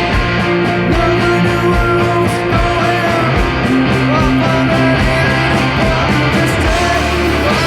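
Live rock band playing: electric guitars, bass and drums at a steady beat.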